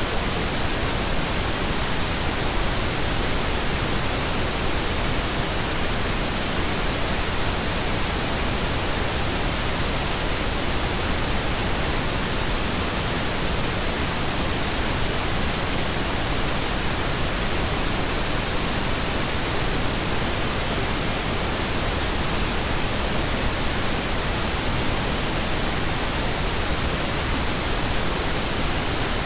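Steady pink noise: an even, unchanging hiss spread across the whole range, with no tones, rhythm or breaks.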